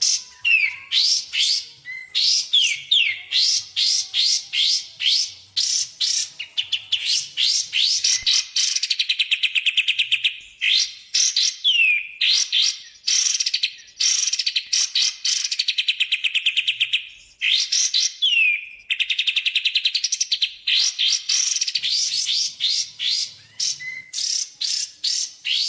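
Recorded songbird song from a masteran (bird-training) track of kapas tembak and cucak jenggot: quick runs of sharp, high chirps, several fast rattling trills lasting a few seconds each, and a few short down-slurred whistles, with brief breaks between phrases.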